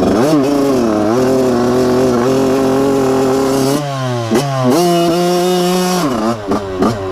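Dirt bike engine being ridden through mud. The revs climb and hold steady for a few seconds, drop briefly about four seconds in, then climb and hold again. Near the end they fall off with a few quick throttle blips.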